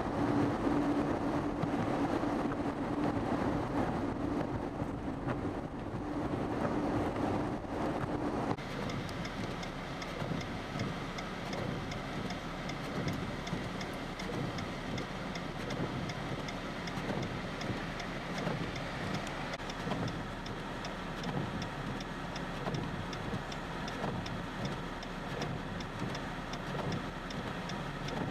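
Steady road vehicle noise with a low hum; after an abrupt cut about eight seconds in, the noise continues with a regular faint ticking about twice a second.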